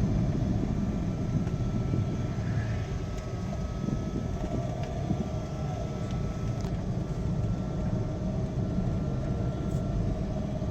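A truck on the move: a steady engine drone and low road rumble, with a faint steady whine above it.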